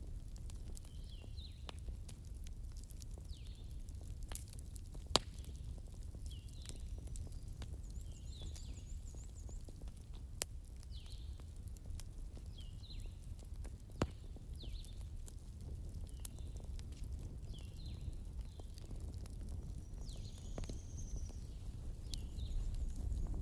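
Campfire crackling, with scattered sharp pops over a low steady rumble. A bird calls throughout in short high chirps, about one a second.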